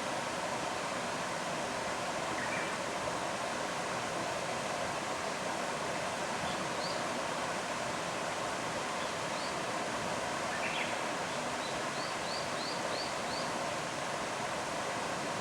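Steady rush of flowing stream water, with a few faint high bird chirps over it, including a quick run of five about two-thirds of the way through.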